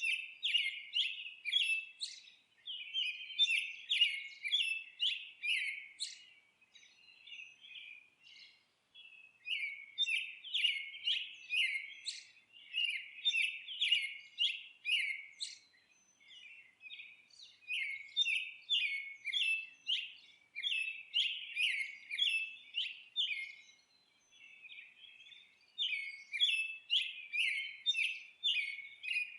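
Songbirds chirping in fast runs of short repeated notes, several a second, breaking off briefly about three times before starting again.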